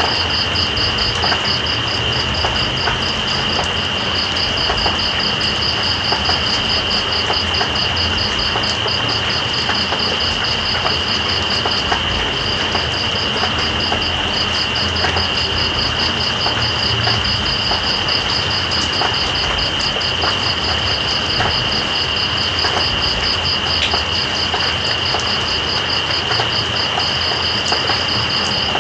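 Steady rain with scattered drop ticks, under night insects: one steady high trill and another fast, pulsing chirp, both going on without a break.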